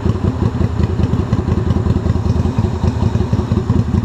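An engine idling steadily with a fast, even pulsing.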